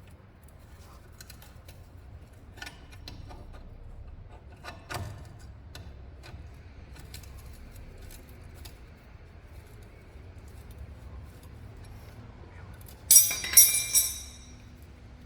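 Metal tools and parts being handled: scattered small clicks and taps, then a loud metallic clatter with ringing near the end.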